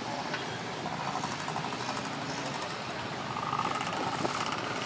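Steady engine noise from vehicles, with a faint whine coming in during the second half.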